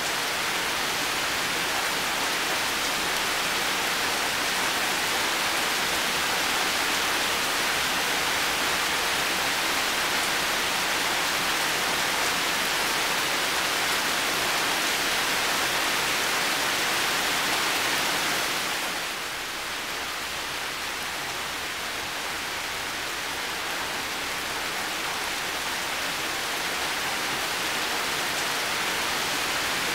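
Heavy rain falling steadily, a dense even hiss of drops. It eases slightly about two-thirds of the way through, then builds back up.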